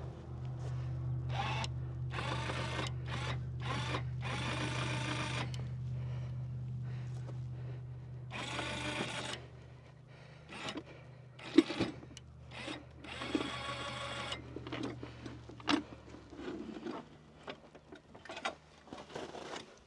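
Electric hive lifter's motor running with a steady low hum, broken by several louder noisy stretches of a second or so, and dying away about sixteen seconds in. Sharp knocks come in the second half, the loudest about twelve seconds in.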